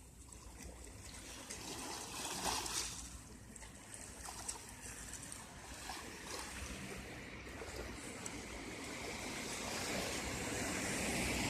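Small sea waves lapping and washing on the beach, a soft steady wash with a few gentle swells, slowly growing louder near the end.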